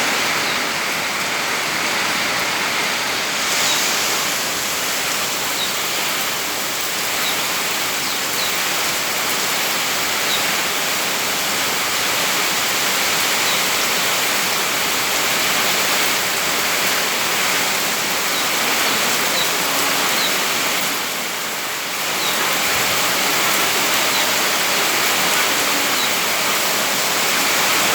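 Heavy rain falling steadily in strong wind, a dense even hiss with faint scattered drop ticks, easing briefly about three quarters of the way through.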